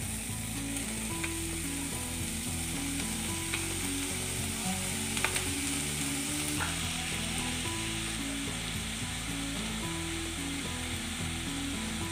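Freshly washed, chopped spring onion greens frying in hot oil and spice paste in a non-stick kadai: a steady sizzle, with a few faint clicks from stirring.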